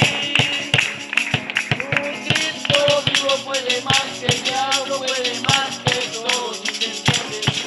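Praise-chorus music: a tambourine keeps a steady beat under voices carrying a melody without clear words.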